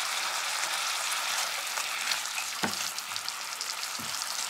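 Blended shallot and garlic spice paste for rendang sizzling steadily in hot oil in a wok while a silicone spatula stirs it, with a couple of light knocks of the spatula against the pan.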